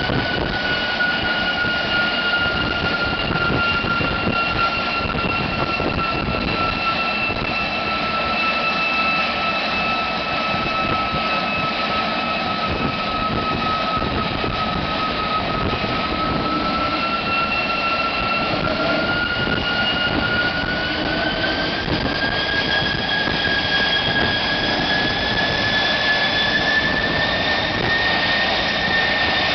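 GE J33 centrifugal-flow turbojet engine running steadily: a dense roar with a high compressor whine. The whine sags slightly in pitch, then climbs over the last third as the engine speeds up.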